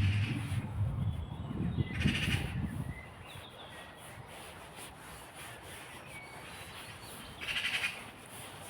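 Woodland birds calling: a short rasping call three times (at the start, about two seconds in, and near the end) among brief thin chirps. A low rumble fills the first three seconds, then stops.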